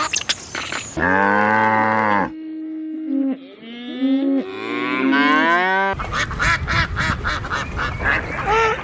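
A cow mooing: two long calls, the second gliding in pitch, after a few short chirps at the start. From about six seconds in, a flock of waterfowl takes over with a dense run of short, repeated honks and quacks.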